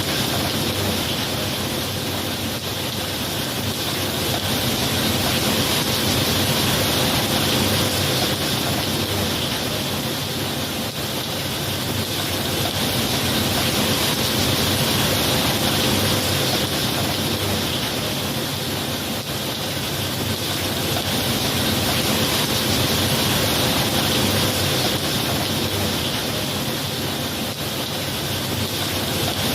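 Steady heavy rain falling, an even hiss that swells and eases gently every several seconds.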